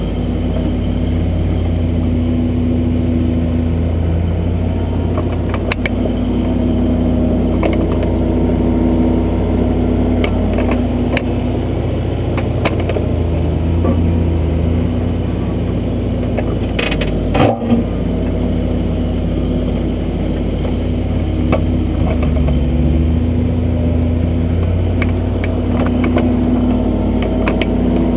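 Kubota backhoe's diesel engine running under digging load, its pitch rising and falling as the hoe works. It is heard close up from the arm, with scattered clicks and knocks and one sharp thump about two-thirds of the way through.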